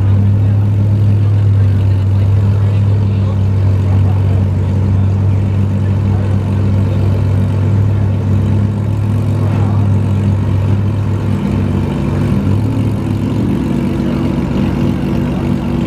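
Car engine idling close by, a steady low note; about eleven seconds in the note changes as a different engine sound takes over.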